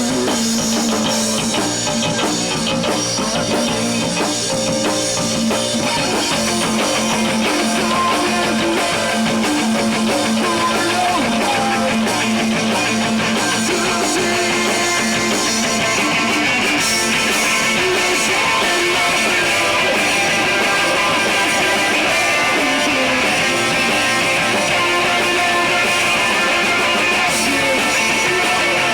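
A rock band playing live: electric guitar and drum kit, loud and steady, with no break in the music.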